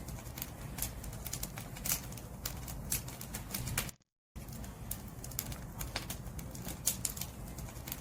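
Firewood burning in a bonfire, with irregular crackles and pops over a steady low rumble of the flames. The sound cuts out completely for about a third of a second halfway through.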